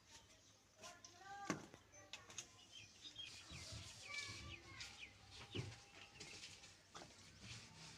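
Faint birds chirping, with a few scattered knocks, the sharpest about a second and a half in.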